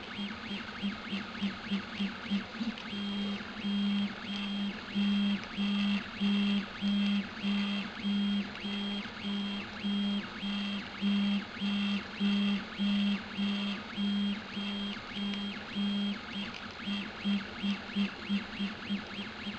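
Stepper motors of a Prusa i3-type 3D printer whining in repeated short moves, as the print head travels back and forth. Each move gives a brief steady tone, about one every 0.7 s in the middle, with shorter, quicker moves near the start and end.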